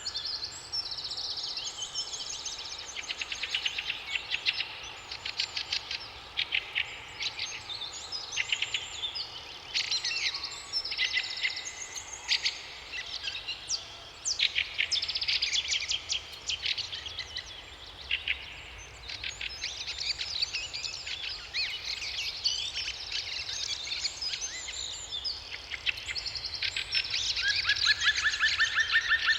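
Several songbirds singing at once in a summer forest chorus: fast trills and chirping phrases, overlapping and coming in bouts. Near the end, one bird's rapid series of repeated notes becomes the loudest sound.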